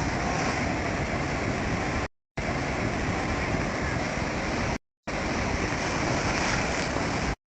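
Steady rushing noise of ocean surf with wind, broken twice by abrupt cuts to silence.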